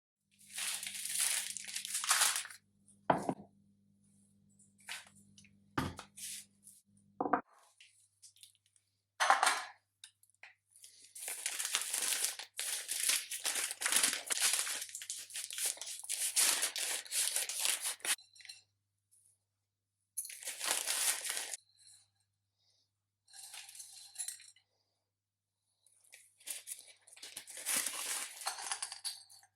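Kitchen handling noises during food preparation: several long bursts of crackly rustling and a few sharp knocks and clinks, over a low steady hum in the first seven seconds or so.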